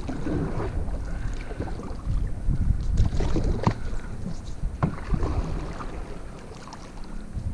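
Canoe being paddled in a strong river current: water splashing and knocking with each paddle stroke, over a steady low rumble of wind on the microphone.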